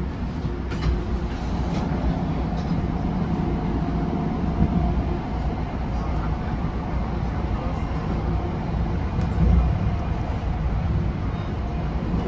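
Steady rumble of an NJ Transit Comet commuter coach running along the track, heard from inside the passenger car, with a few light clicks.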